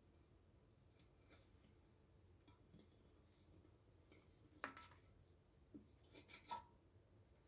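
Faint, scattered scraping and light ticks of a piece of stiff cardboard drawn over the stove's glass, taking off the degreaser-loosened grime. The strongest strokes come a little past halfway and again about a second and a half later.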